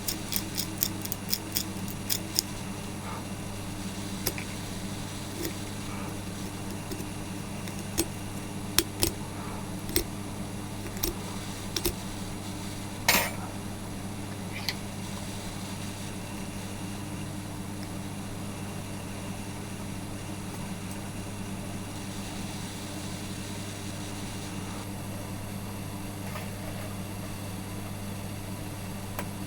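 Sharp clicks and taps from handling the small parts of an electric kettle's button switch at the bench: a quick run of clicks at the start, then scattered single clicks and one louder scrape a little before halfway. A steady low electrical hum runs under it throughout.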